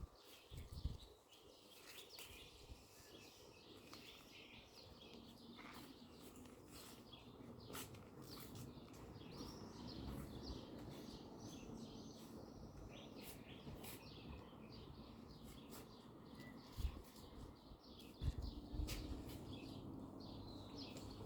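Small songbirds chirping faintly, many quick overlapping chirps throughout, over a steady low background noise with a couple of dull low thumps in the second half.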